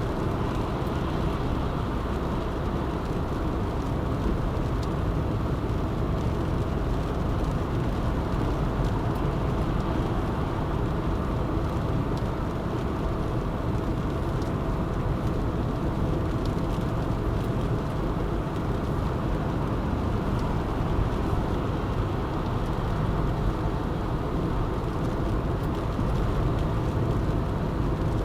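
A car driving at a steady speed: a continuous, even rumble of tyres and engine, heaviest in the low end, with a faint steady hum.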